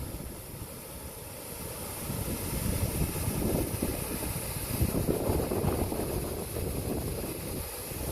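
Wind buffeting the microphone: a gusting low rumble that rises and falls, over a steady hiss.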